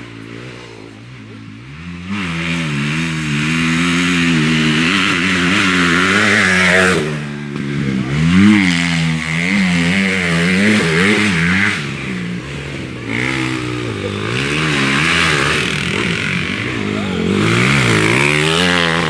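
Motocross bike engine being ridden, its pitch rising and falling over and over as the throttle is opened and closed. It gets much louder about two seconds in, with a few short drops as the throttle is shut off.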